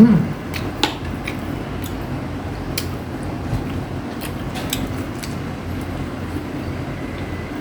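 Close-miked eating sounds: scattered small clicks and smacks from chewing rotisserie chicken, over a steady low rumbling background noise.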